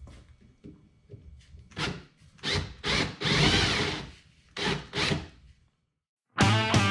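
A few light clinks, then a drill running in short bursts, the longest about a second, drilling out the rivets on a Yamaha 250 muffler. Music starts near the end.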